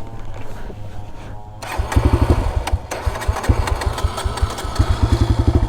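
Motocross bike engine being cranked, turning over in quick uneven pulses and sputtering without catching. It is starved of fuel because the fuel petcock is shut.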